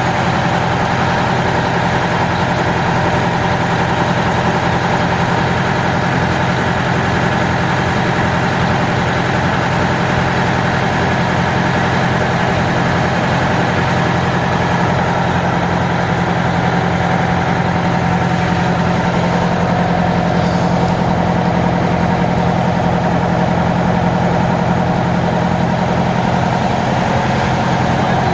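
An engine running steadily at idle, an even low hum that does not change.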